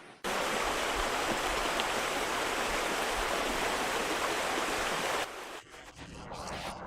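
Steady rush of flowing water, which drops to a fainter, uneven wash about five seconds in.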